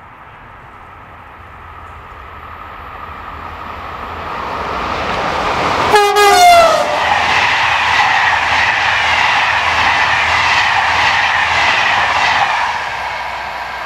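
A train approaches with a rising rumble and sounds a short horn blast about six seconds in, which drops in pitch as it goes by. Its cars then roll past with rhythmic wheel clatter, fading near the end.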